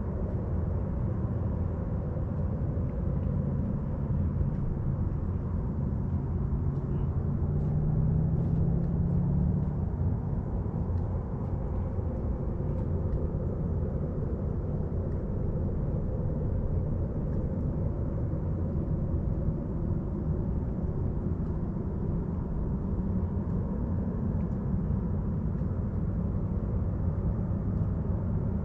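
Steady low rumble of a distant engine, with a humming tone that swells and fades about a third of the way through. Faint high bird chirps sound now and then above it.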